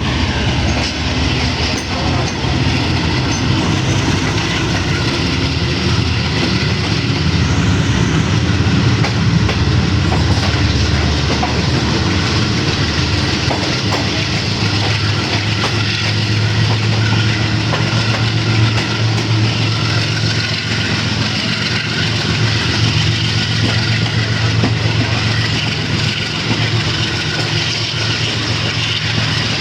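Pakistan Railways GEU40 diesel-electric locomotive roaring as it hauls the train out, with wheels clattering on the rails. About halfway through, the engine's low hum grows stronger.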